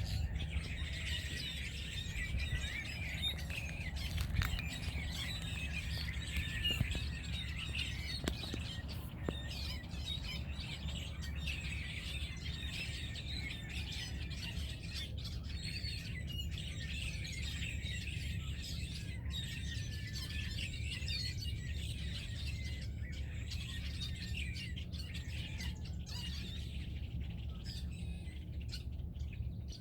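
A large flock of small birds chirping together in a dense, overlapping chatter that thins out about halfway through, over a steady low hum.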